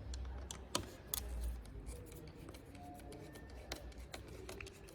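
Hands working small tools and parts on a motorcycle's handlebar controls: scattered sharp clicks of metal and plastic with light rubbing in between, the clearest click about three-quarters of a second in.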